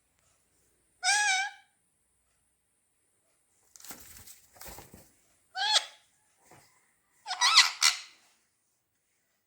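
Parrots squawking: three harsh calls with a wavering pitch, about a second in, near six seconds and around seven and a half seconds, with a rustling scuffle between the first two.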